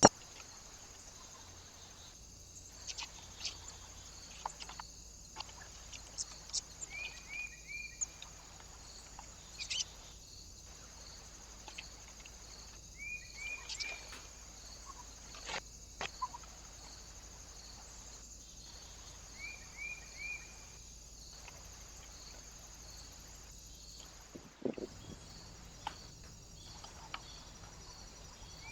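Small birds calling at a feeder: three times, a call of three quick, slightly falling notes, with scattered short chirps and clicks. A steady high hiss runs underneath, and there is a single low thump near the end.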